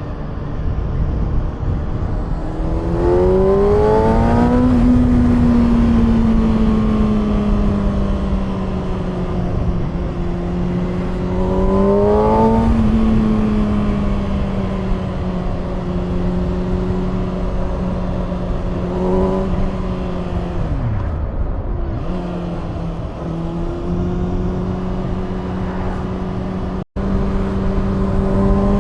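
Kawasaki ZX6R's inline-four engine running through an SC Project aftermarket exhaust while riding. The engine pitch climbs in short bursts of throttle a few seconds in and again about twelve seconds in, then holds steady at cruise. Past the middle it falls away as the bike slows, then settles again, and the sound cuts out for an instant near the end.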